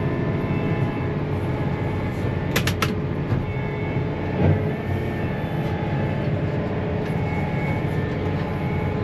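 Large John Deere tractor's diesel engine running steadily. Three sharp clicks come a little under three seconds in, and a short thump at about four and a half seconds.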